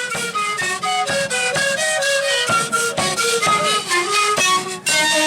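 Traditional folk music led by a flute-like wind instrument playing a quick melody of short notes over a steady beat. The music breaks off briefly near the end, then carries on.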